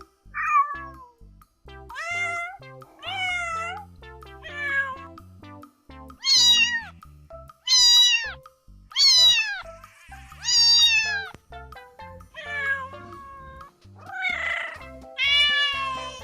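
Domestic cats meowing, about a dozen separate meows in a row, most rising then falling in pitch, some higher and longer, over soft background music.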